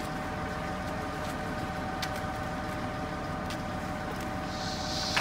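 Steady engine drone of heavy concrete-pour machinery running at a constant speed, with a few faint clicks over it.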